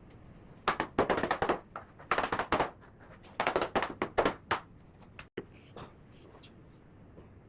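Three bursts of rapid clicking and clattering, each about a second long, in the first two-thirds, then only faint ticks.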